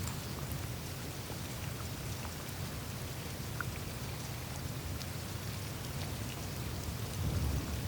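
Melting glacier surface: a steady trickle and rush of meltwater flowing through the ice, with scattered tiny ticks and clicks, and a low rumble that swells near the end.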